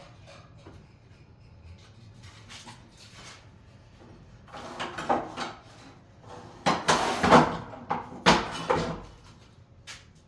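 A cluster of knocks, clatters and scrapes of hard objects being handled on a job site, loudest a little past the middle and then dying away.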